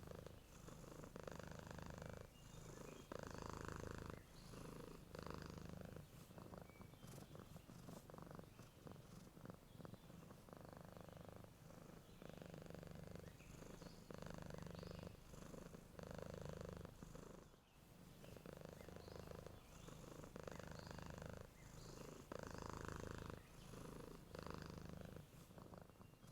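Domestic cat purring softly and steadily, the purr swelling and fading with each breath about every one and a half to two seconds.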